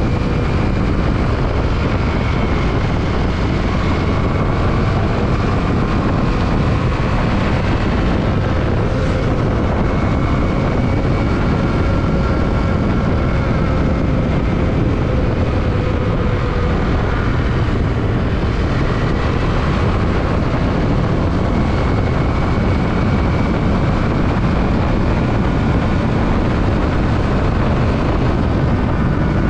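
Yamaha WR155R single-cylinder motorcycle riding at a steady cruise, wind rushing over the microphone with the engine's hum underneath, its pitch rising and falling slowly with speed.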